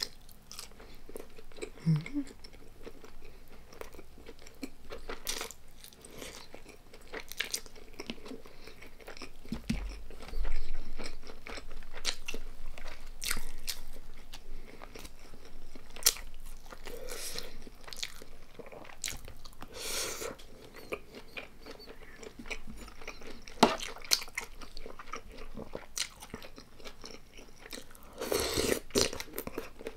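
Close-miked eating sounds: chewing and biting food, with irregular crisp crunches and a few louder clusters of crunching about a third of the way in and near the end.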